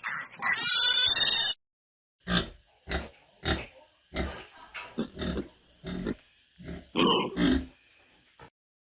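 A higher-pitched animal call that cuts off after about a second and a half, then a run of about ten short grunts from an animal, irregularly spaced, with a heavier pair of grunts about seven seconds in.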